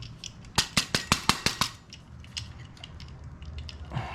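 A quick run of about eight sharp metallic clicks in just over a second, then a few faint ticks: small metal parts of a heater control unit being worked by hand while a reproduction face is fitted.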